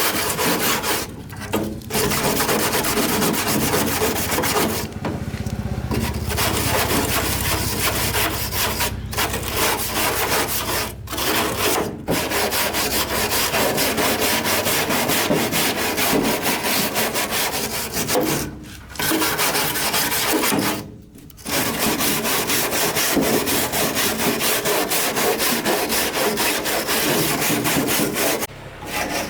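Abrasive grinding or sanding, a harsh continuous rasping that stops briefly several times and starts again.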